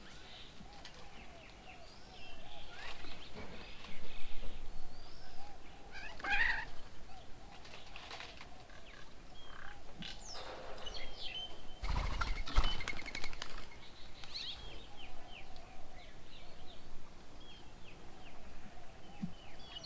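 Birds at a bird table: many short, high chirps and calls, with a few louder rustling bursts, the loudest about twelve seconds in.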